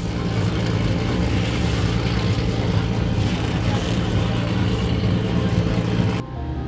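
Drift car engine running hard at steady revs, with a loud rushing noise over it, cutting off suddenly about six seconds in.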